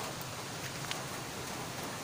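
Heavy rain falling: a steady, even hiss with a couple of faint drop ticks.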